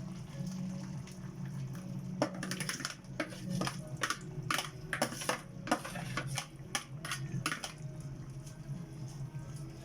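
Dishes and cutlery clinking and clattering in quick irregular knocks, starting about two seconds in and thinning out near the end, over a steady low hum.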